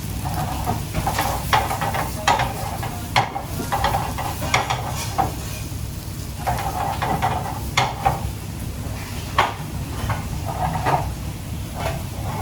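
Food stir-fried in a pan: a metal utensil scrapes and knocks against the pan at irregular intervals, about nine sharp knocks in all, over a steady low rumble.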